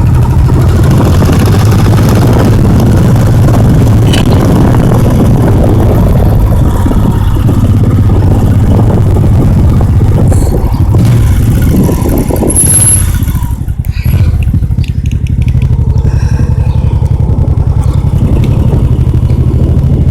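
Motorcycle engine running steadily under way, with a brief dip in level about two-thirds of the way through before it picks up again.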